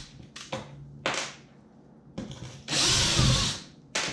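Power drill-driver running in a short burst of about a second, backing out a stainless steel screw, after a few light clicks.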